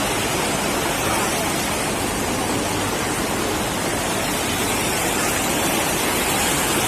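Fast-flowing floodwater rushing, a steady even noise with no breaks.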